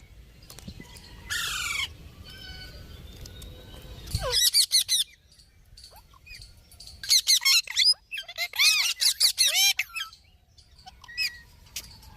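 Pet parrot squawking in bursts of rapid, repeated screechy calls: one burst about four seconds in, then a longer run in the second half.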